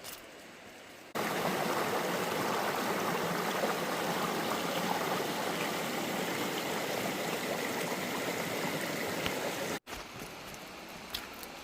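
Creek water rushing steadily, starting suddenly about a second in and cutting off suddenly near the end. Before and after it, quieter forest ambience with light ticks.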